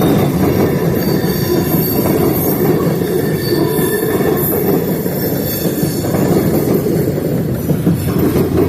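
Freight train rolling past: a steady, loud rumble of wheels on rail, with thin high-pitched wheel squeals coming and going.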